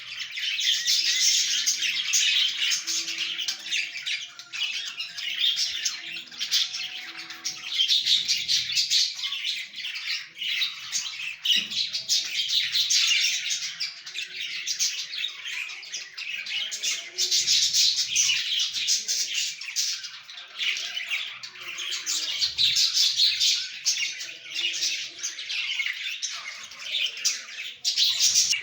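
A group of budgerigars chattering with constant overlapping chirps and squawks, growing louder and softer in waves.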